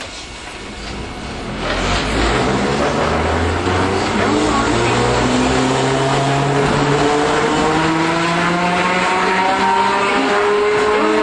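Iyotetsu Matsuyama streetcar heard from on board, pulling away: about two seconds in the running noise swells, and the traction motor and gear whine rises steadily in pitch as the tram accelerates.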